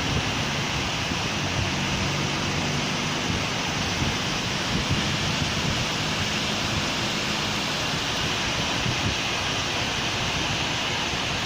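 Steady rain falling on a city street, an even hiss, with a low vehicle engine hum underneath that fades out about eight seconds in.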